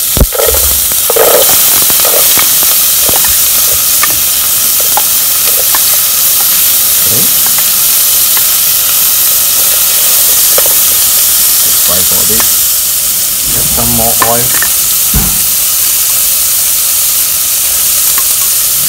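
Chopped onion and garlic sizzling as they fry in hot oil in a pot, a loud steady hiss, with a metal spoon knocking and scraping as it tips them in and stirs them.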